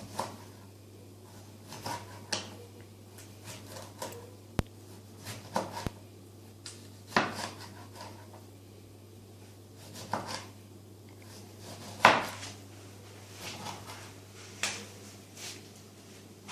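Kitchenware being handled: irregular knocks and clinks of dishes and utensils, the loudest about seven and twelve seconds in, over a steady low hum.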